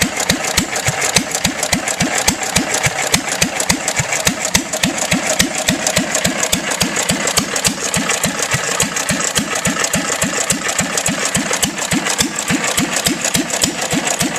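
1 1/2 HP International Harvester Model M throttle-governed gas engine running at a steady speed, its exhaust beats firing evenly. It runs on gasoline poured straight into the carburettor, because the fuel pump plunger is missing.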